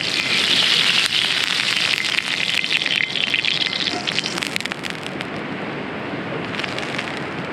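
Oil sizzling and popping in a hot cast-iron pan over a campfire, loudest in the first few seconds and then easing.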